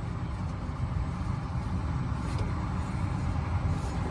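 Steady low rumble of outdoor background noise, with two brief faint hisses about two and four seconds in.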